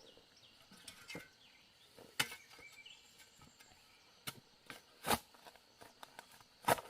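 A few scattered sharp knocks and taps at uneven intervals, with faint bird chirps in the background.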